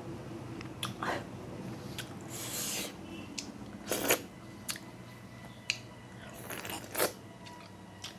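A person eating close to the microphone: chewing with wet mouth clicks and smacks, and a few louder crunchy bites about one, four and seven seconds in.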